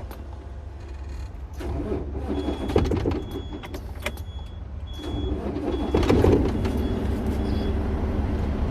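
Truck engine idling, heard from inside the cab as a steady low rumble, with a faint high beep repeating about every half second from a couple of seconds in until near the end, and louder rustling swells around three and six seconds in.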